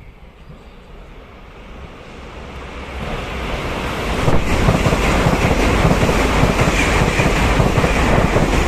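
A train approaching and passing close by: a rushing rumble that grows louder over about four seconds, then runs loud and steady with a few sharp clicks near the end.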